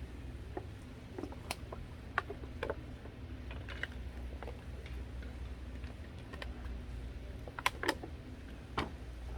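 Irregular light clicks and taps, a dozen or so, with no steady rhythm, over a low steady hum.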